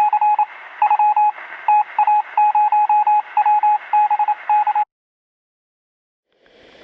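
Morse code: a single beep tone keyed in short and long beeps over radio hiss, with a narrow, tinny radio sound. It stops about five seconds in.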